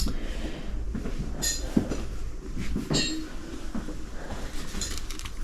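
Small hard objects clinking as they are handled, three light knocks about a second and a half apart, the later two with a short bright ring, over a steady low rumble.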